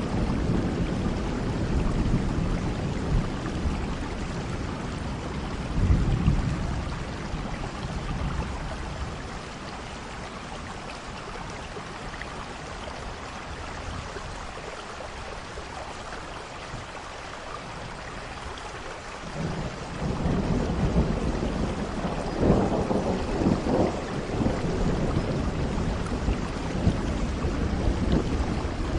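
Steady rain with rolling thunder. The deep rumble of the thunder eases away about a third of the way in, leaving mostly the hiss of rain, then builds again with a louder peal about two-thirds through.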